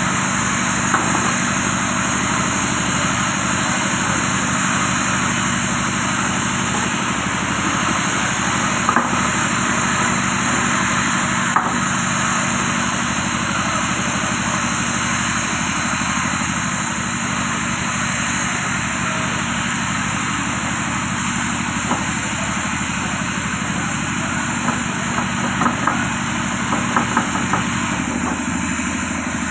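A machine running steadily with an even low hum, with a few faint clicks and knocks over it.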